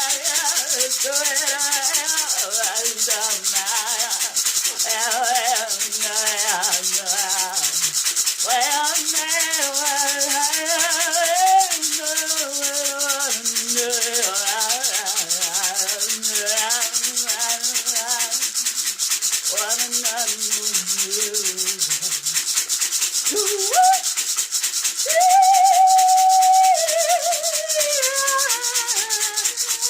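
A woman's voice singing wordless, gliding 'light language' lines, accompanied throughout by a hand rattle or shaker shaken continuously. Near the end she holds one long high note, the loudest part.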